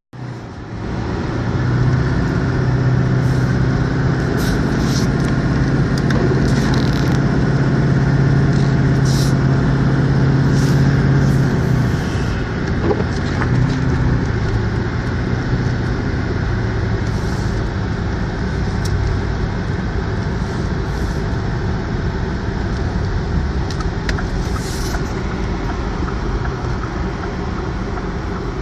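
A vehicle driving through deep snow, with a steady engine drone over continuous road noise. The engine note eases off about twelve seconds in, and light ticks and crackles come and go throughout.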